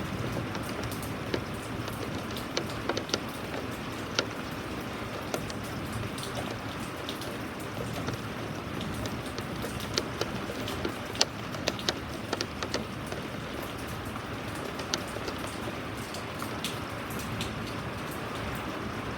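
Steady rain falling, with scattered individual drops ticking sharply on a nearby surface.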